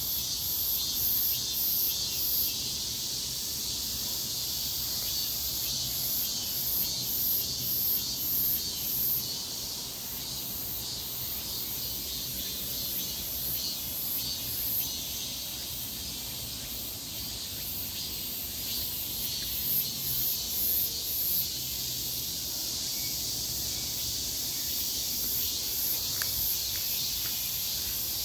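Insects chirping: very high-pitched pulses in quick runs that come and go, over a steady high hiss.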